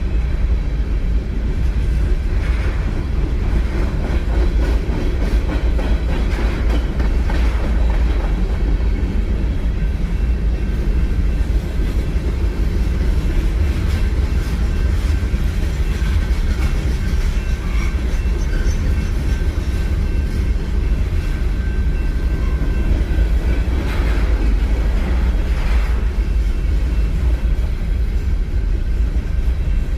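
A train rolling past with a steady, loud low rumble, joined a few times by faint sharper sounds from the wheels and rails.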